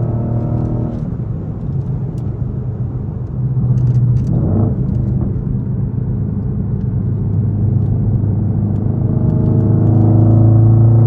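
Straight-piped Infiniti M56's 5.6-litre V8 exhaust rumbling at low revs while driving, with a brief rise and fall in revs about four and a half seconds in and a slow climb in revs near the end.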